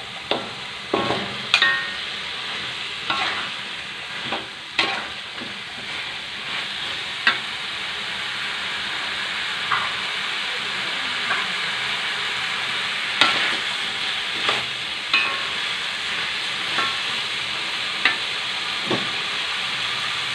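Raw chicken feet frying in spice paste in a metal wok: a steady sizzle that builds over the first several seconds, with irregular clinks and scrapes of a metal spatula stirring against the wok.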